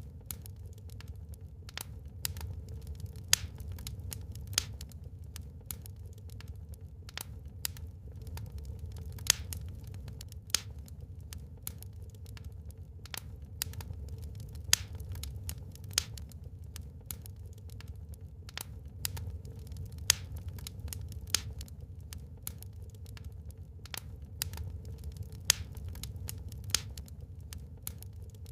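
Wood fire in a fireplace crackling: irregular sharp pops and snaps, several a second at times, over a steady low rumble of the burning.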